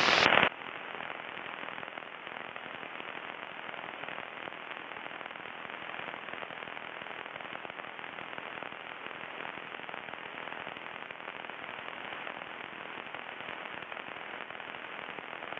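Steady crackling static hiss on the aircraft's radio and intercom audio feed, with no engine note coming through, the result of a badly crackling radio.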